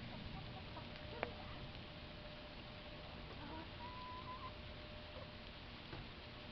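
A chicken giving one drawn-out, slightly rising call about halfway through, over a steady patter of rain. A single sharp tap sounds about a second in.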